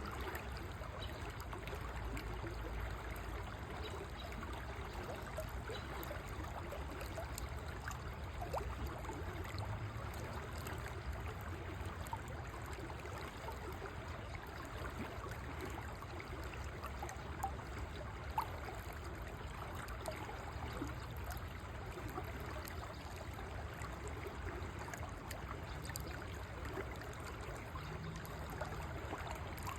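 River water flowing steadily, a continuous rushing and trickling, with two short ticks a little past halfway.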